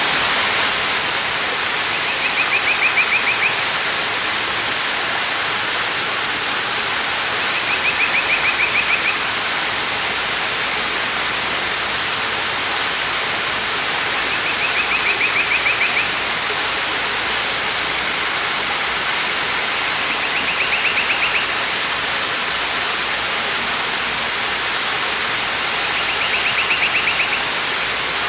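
Waterfall with a steady rushing sound of falling water. A short, high, rapid trill rises above it five times, about every six seconds.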